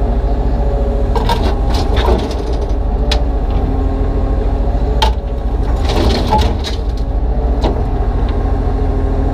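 Kubota U35-3 mini excavator's diesel engine running steadily under work, with a series of sharp knocks and cracks as broken concrete chunks scrape and bang against the steel bucket and trailer during loading.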